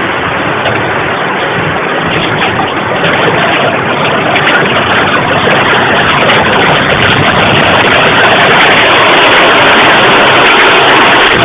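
Severe hail pelting down, a dense clatter of impacts over a steady roar that thickens about three seconds in and keeps getting louder until past the middle. Heard through a security camera's microphone.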